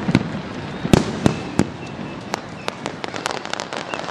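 An aerial fireworks display going off: a rapid, irregular string of bangs and cracks over a continuous crackle. The loudest bang comes about a second in.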